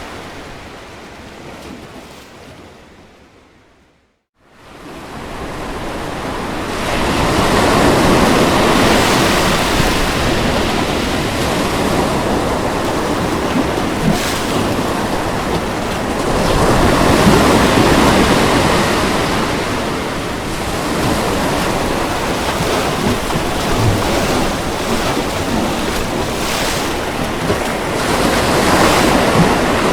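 Ocean waves washing onto a shore in slow, repeated surges, a steady rushing hiss that swells and ebbs. About four seconds in the sound fades out to silence and then swells back in.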